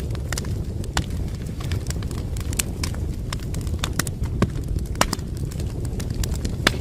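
Wood fire crackling, with irregular sharp pops and snaps over a steady low rumble of the flames; one of the loudest pops comes near the end.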